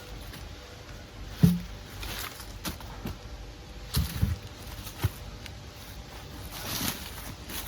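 Footsteps and the handling of things outdoors: scattered sharp knocks and thuds, one about a second and a half in and a cluster around four to five seconds in, with a rustling swish near the end.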